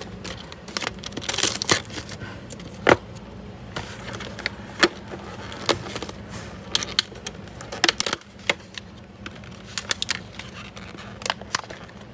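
Snack packaging being handled and opened: scattered sharp clicks and crackles of cardboard and plastic, with a brief crinkling burst about a second and a half in.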